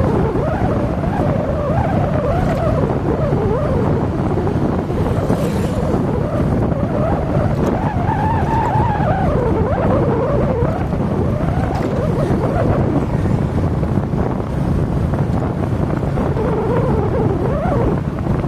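Motorcycle engine running on the move, its note rising and falling, under heavy wind buffeting on the microphone.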